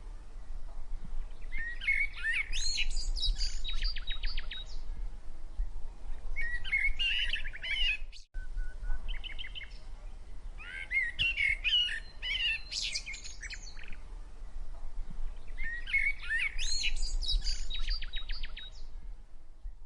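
Java sparrows singing in repeated bouts of chirping notes, each bout running into a fast clicking trill, with gaps of a second or two between bouts. A steady low hum lies underneath, and the sound cuts out for a moment about eight seconds in.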